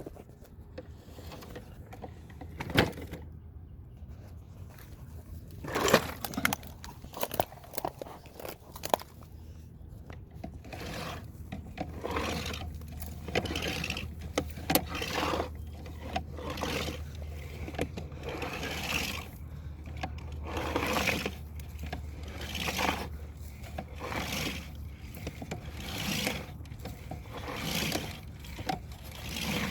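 Motor-driven drain-cleaning cable machine running with a steady low hum, its cable scraping and knocking in the drain roughly once a second.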